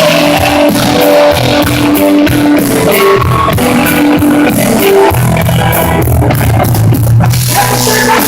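Live rock band playing loudly, an instrumental stretch with no singing.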